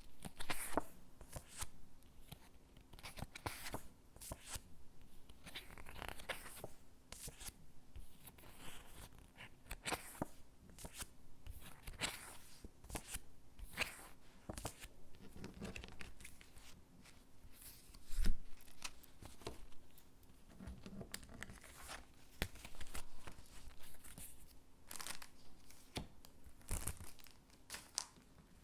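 Stickers being peeled off their backing sheet and pressed onto paper cutouts: a run of irregular short peeling, scratching and rustling sounds, with one louder thump about two-thirds of the way through.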